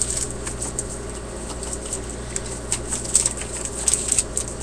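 Baseball trading cards being flipped through and handled by hand: a run of light, irregular clicks and snaps, over a steady low hum.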